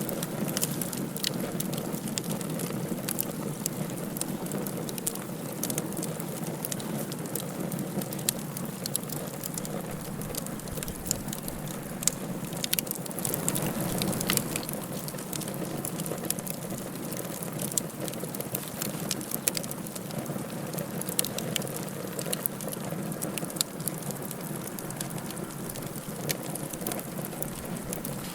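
Wood fire burning in a fireplace: a steady low rush of flame with frequent sharp crackles and pops scattered irregularly throughout.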